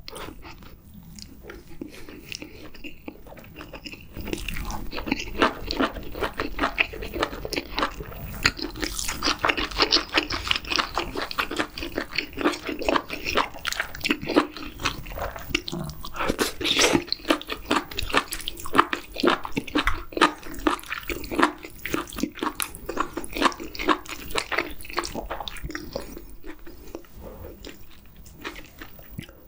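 Close-miked chewing and biting through mouthfuls of rice and spicy stir-fried webfoot octopus with bean sprouts: a dense run of quick chewing sounds, louder from about four seconds in and softer near the end.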